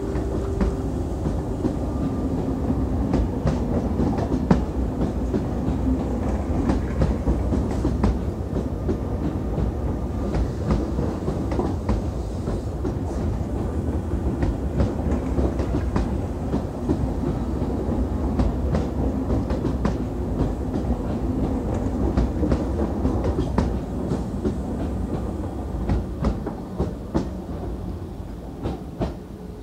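MI79 electric multiple unit departing: a steady rumble with a pitched motor whine and the wheels clicking over rail joints as the cars roll past. The sound eases off near the end as the last car goes by.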